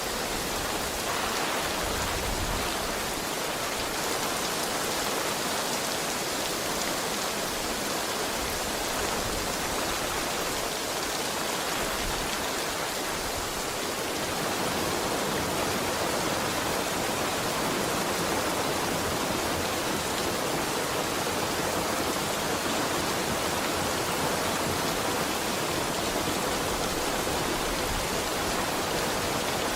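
Heavy rain falling steadily, a dense even hiss that grows slightly louder about halfway through.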